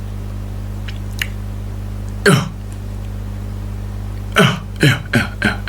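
Short vocal bursts from a person's voice, like throat clearing or coughs: one about two seconds in and a quick run of four near the end, each falling in pitch, over a steady low hum.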